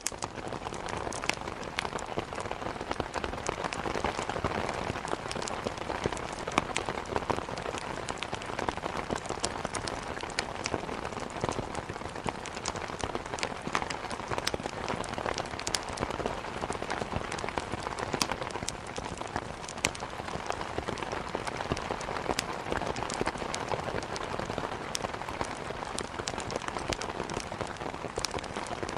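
Heavy rain falling steadily, an even hiss dotted with many sharp drop ticks.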